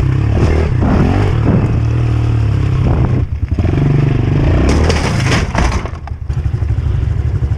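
Small pit bike engine running under load and revving, its pitch rising and falling as the throttle is worked, with short let-offs about three seconds in and again about six seconds in.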